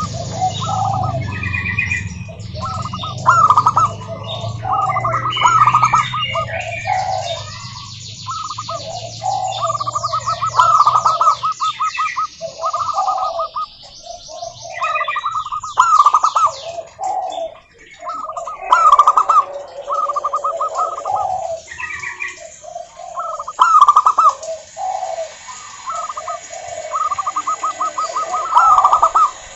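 Zebra doves (perkutut) singing, one rolling, stuttering coo phrase after another with overlapping phrases as birds answer each other, mixed with higher chirps from other birds. A low rumble underneath fades out about a third of the way in.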